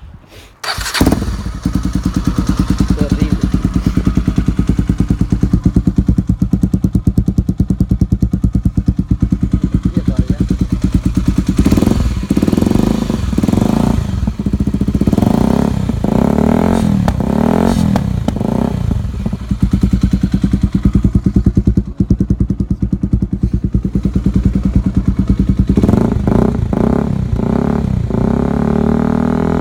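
Honda Tornado 250's single-cylinder four-stroke engine through a Yoshimura aftermarket exhaust. It starts about a second in and idles with a steady rumble. It is then revved in a series of quick blips, several in the middle and more near the end.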